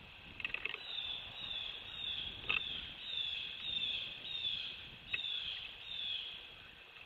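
Red-bellied woodpecker calling: a steady series of high, downward-sliding notes, about three every two seconds. A quick run of sharp taps comes near the start, and single sharp knocks follow about two and a half and five seconds in.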